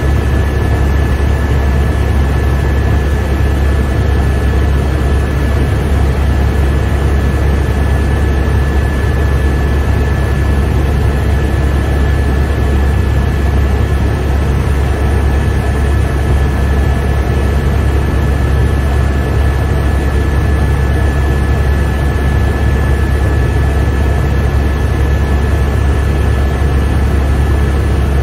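Helicopter in flight heard from inside the cabin: a loud, steady drone of rotor and turbine engine with a constant high whine.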